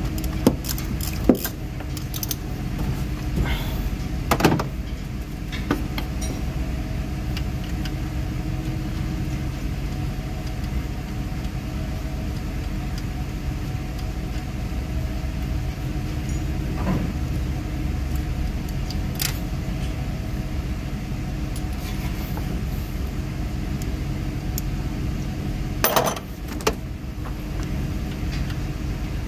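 2017 GMC Yukon's V8 engine idling steadily, with no knocking, only the misfire that was traced to a bent pushrod. A few sharp clicks sound over it, the loudest near the end.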